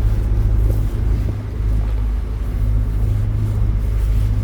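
A narrowboat's diesel engine running steadily under way, a continuous low drone.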